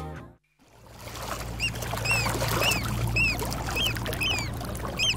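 Music fades out at the start. After a moment's silence, a bird calls repeatedly, short arched chirps about twice a second, over a steady low rumble and hiss.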